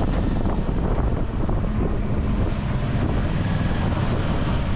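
Wind buffeting the microphone: a steady rush with a low rumble beneath.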